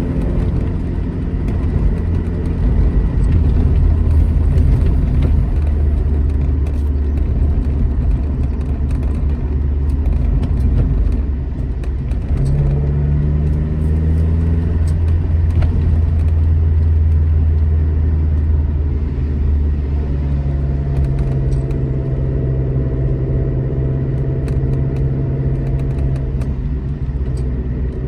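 Alfa Romeo GT Junior's twin-cam four-cylinder engine running under way, a steady low rumble that eases briefly about eleven seconds in, then holds an even note.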